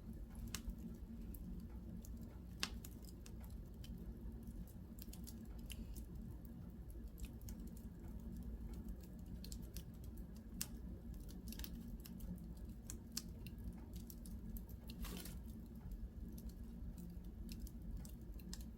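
Wood fire in a fireplace crackling, with irregular small pops and snaps and one louder pop about fifteen seconds in, over a low steady hum.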